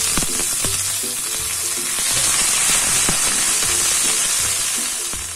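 Chopped garlic and ginger-chilli paste sizzling loudly in hot oil, stirred with a steel spoon that clicks against the pan now and then. The sizzle eases a little near the end.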